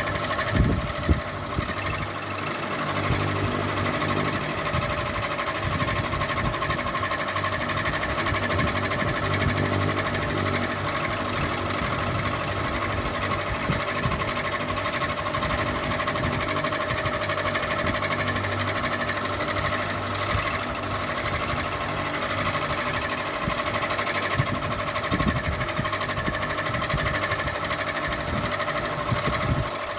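Ceiling fan running with a continuous steady mechanical whirr and hum, with a few short louder knocks about a second in and again later.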